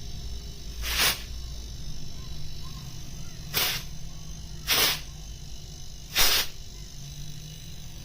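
Four short spray hisses, each about a quarter to half a second long and spaced one to two seconds apart, as the condenser is sprayed during cleaning.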